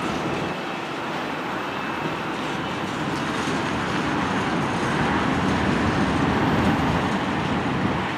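Freight train passing, its tank cars and covered hoppers rolling by with a steady rumble of steel wheels on rail. It grows somewhat louder about five seconds in.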